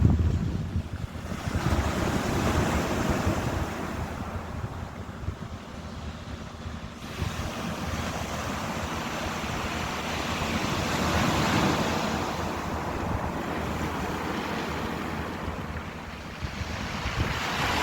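Ocean waves breaking and washing in, the surf noise swelling and falling back over several seconds, with a louder surge about two seconds in, another past the middle, and a third building near the end.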